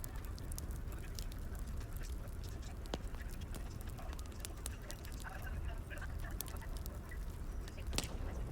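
Wood fire crackling: scattered sharp pops and snaps over a low steady rumble. A few short high-pitched squeaks come about five to six seconds in.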